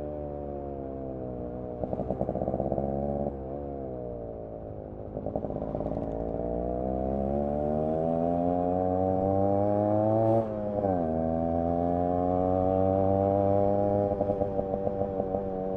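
Yamaha RX 100's single-cylinder two-stroke engine and exhaust under way: the revs fall, then climb steadily for several seconds, drop sharply at a gear change about ten seconds in, and climb again. The exhaust stutters in quick pulses near the end, with a shorter stutter about two seconds in.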